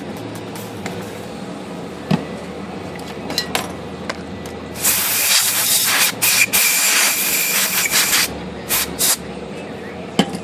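Compressed-air spray hissing in one burst of about three seconds, then two short puffs, cooling the freshly heated and melted-in plastic hub of an IBM Selectric center pulley.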